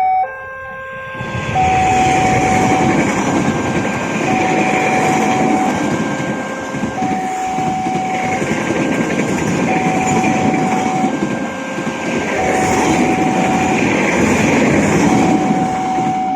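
The KA Kertajaya passenger train rolls past over a level crossing, a steady rumble and rattle of wheels on rail that starts about a second in. Through it the crossing's electronic warning alarm keeps sounding its two alternating notes, low then high, each held about a second and a half.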